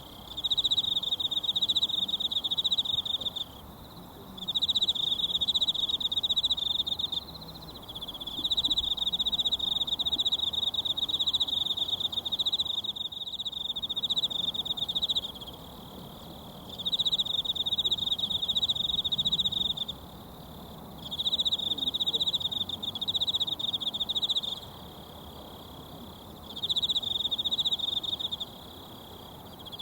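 A singing insect trilling in a high, rapid pulsed buzz, in six bouts of a few seconds each with short pauses between, over the faint, steady rush of a mountain stream.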